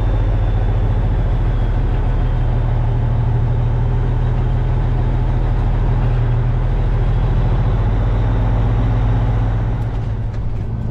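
Semi truck's diesel engine running steadily with a deep, even drone, getting a little quieter near the end.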